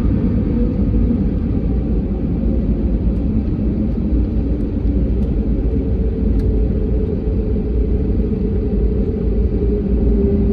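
Jet airliner's engines running steadily: a low rumble with a constant hum, with no rise in power.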